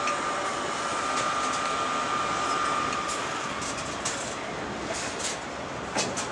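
Container freight wagons running past on the rails, with a steady high squeal for the first three seconds and a couple of sharp clacks near the end.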